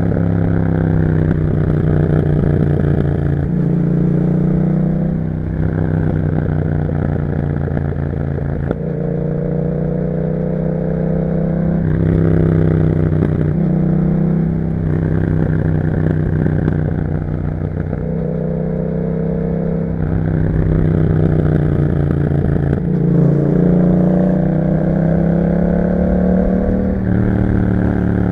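2021 Yamaha MT-07's parallel-twin engine through an Akrapovic exhaust, ridden on the road. The engine note repeatedly climbs in pitch for a few seconds and then drops back as the bike pulls and shifts or eases off.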